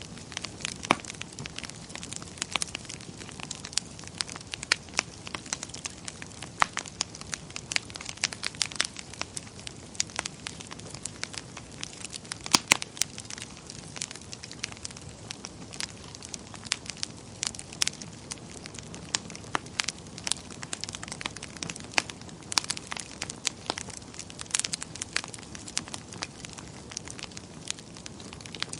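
Fire in a fireplace crackling: a steady soft hiss with irregular sharp pops and snaps, a few louder ones near the middle.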